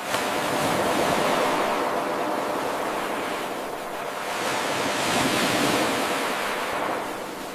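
Ocean waves washing onto a shore in one steady rush of surf that swells and eases. About a tenth of a second in, the level jumps up abruptly where the 8-second recording loops back to its start.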